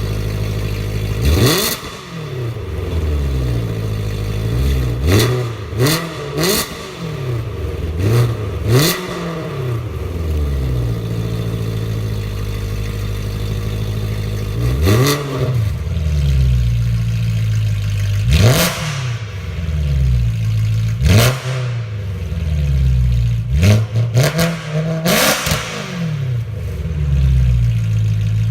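BMW M3 E92's 4.0-litre V8, breathing through an iPE Evo full stainless-steel exhaust, idling with about ten quick throttle blips. Each rev shoots up and drops straight back to idle.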